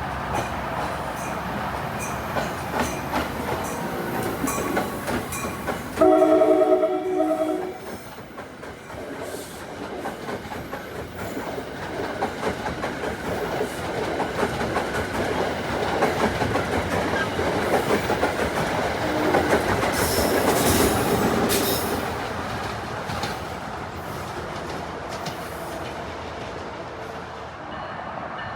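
A train running past with steady rumble and wheel clatter on the rails. About six seconds in, a multi-note train horn sounds one blast of about two seconds, the loudest moment.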